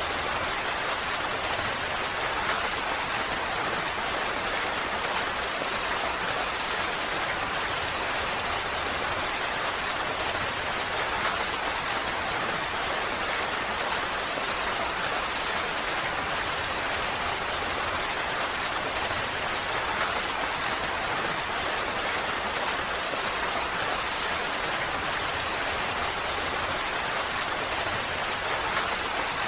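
Steady rain falling, an even hiss of drops with occasional faint individual drop ticks.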